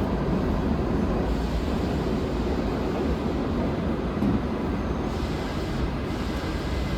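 Steady low rumble and noise of an R subway train car, heard from inside the car, easing slightly in level.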